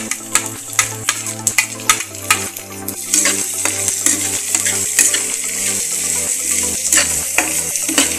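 Sliced onions sizzling in hot mustard oil in a kadhai while a spatula stirs them, scraping the pan about twice a second. The sizzle grows stronger about three seconds in. Soft background music plays underneath.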